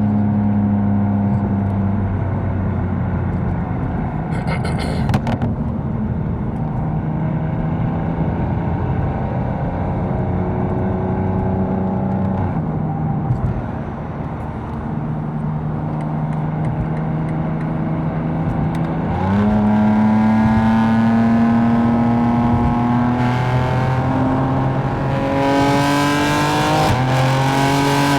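Tuned 750 hp BMW M4's twin-turbo straight-six running while driving in highway traffic, heard from inside the cabin, its note holding and changing pitch in steps between gears. About two-thirds of the way through it pulls harder and gets louder, the pitch rising, then stepping up a few more times near the end.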